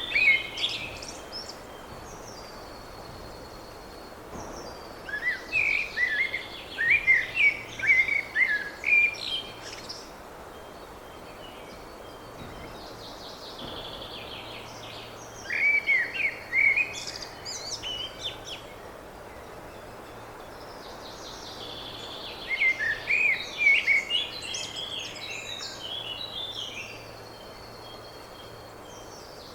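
A songbird singing in bouts of quick, varied chirping phrases, each bout lasting a few seconds, with pauses of several seconds in between.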